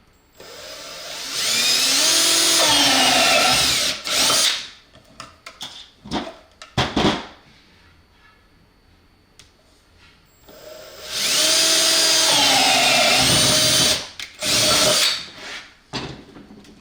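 Electric drill running a unibit step drill bit to open holes in the lamp's enclosure box, in two runs of a few seconds each, the motor pitch sagging as the bit bites. Short clicks and handling knocks between the runs.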